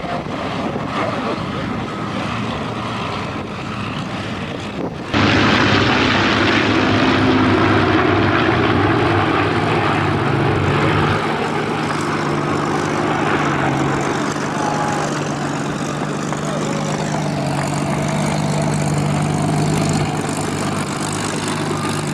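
Spitfire's piston engine running with a steady propeller drone. About five seconds in, the sound jumps abruptly louder and stays that way.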